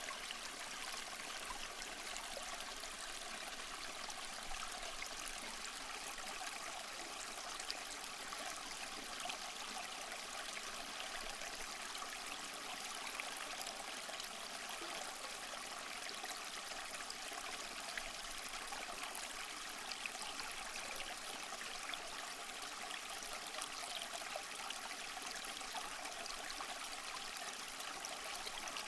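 Small waterfall splashing and trickling steadily over rocks, a continuous light, hissy rush of water with little low rumble.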